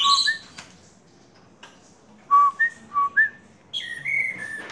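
A man whistling short two-note phrases to caged birds: a steady low note followed by a quick upward flick, twice, then a longer, higher note near the end.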